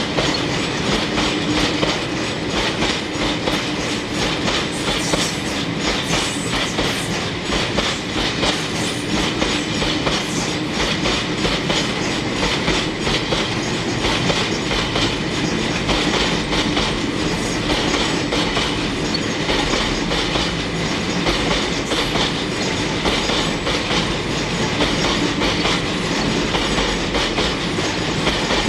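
Train running steadily on the track, its level holding even with no approach or fade.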